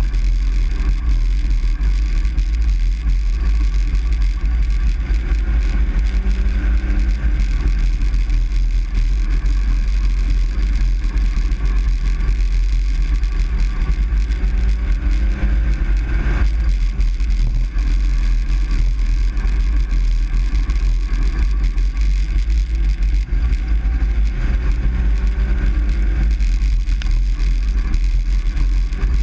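Truck cab noise while driving: a steady, loud low rumble of engine and road, with the engine note rising and falling a little a few times.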